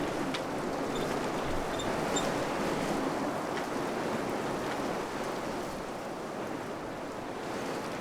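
Wind blowing steadily in gusts, a rushing noise that eases a little after about five seconds. A few faint, short high peeps in the first couple of seconds.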